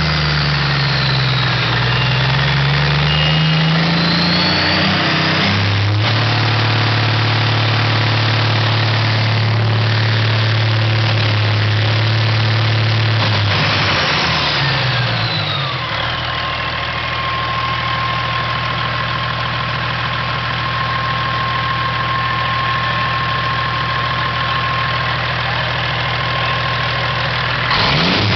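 Caterpillar 3406E turbocharged inline-six diesel running on its first start-up. Its speed dips and climbs in the first few seconds, then holds steady; about fourteen seconds in it drops back to a steady idle as a whine falls in pitch. A steady high whine carries over the idle, and the engine speeds up again right at the end.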